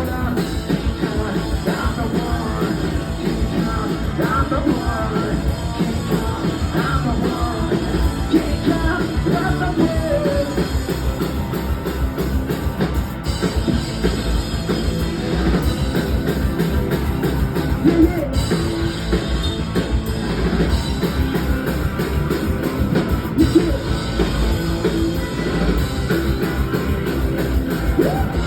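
A punk rock band playing live with drums, guitar and a singing voice. The vocals stop about ten seconds in, and the band plays on without singing.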